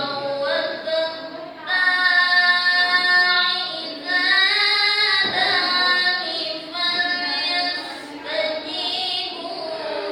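Solo melodic Quran recitation (tilawah): a student's voice holding long, ornamented notes that waver and glide in pitch, with brief pauses for breath between phrases.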